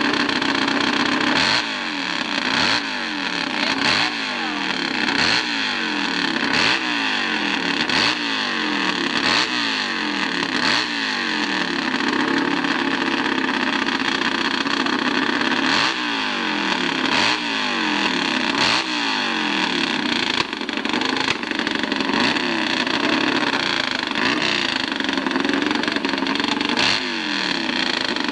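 Hillclimb racing motorcycle engine revved over and over, its pitch rising and falling about once a second. It holds steadier for a few seconds near the middle, then is revved again.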